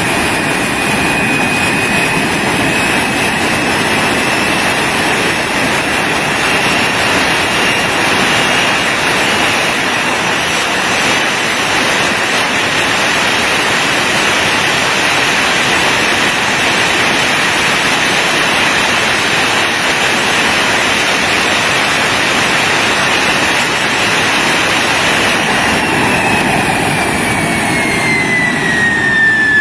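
De Havilland Vampire's jet engine running on the ground at steady power: a loud rushing roar with a high whine over it. Near the end the whine falls steadily in pitch.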